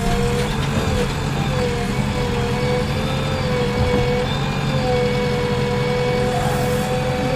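JCB backhoe loader's diesel engine running steadily under digging work, with a held tone that wavers and breaks off a few times over the top.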